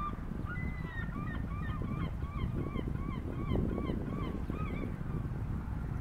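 A bird honking in a quick series of short, goose-like calls, about two to three a second, over a steady low rumble.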